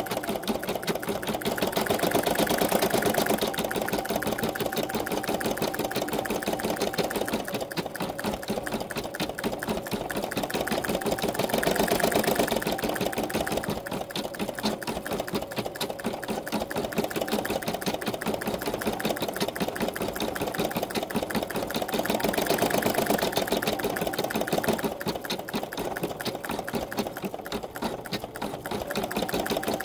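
Embroidery machine stitching continuously, a fast even run of needle strokes, growing louder and softer in slow swells.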